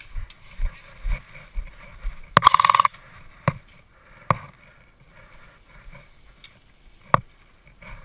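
A short burst of rapid airsoft rifle fire, a fast rattle about half a second long, followed by three single sharp shots spaced out over the next few seconds. Before the burst there are dull thumps about twice a second.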